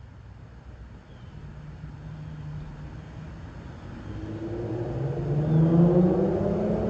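Exhaust of an Infiniti Q50's VQ37VHR V6 with a muffler delete, faint at first and growing steadily louder as the car approaches.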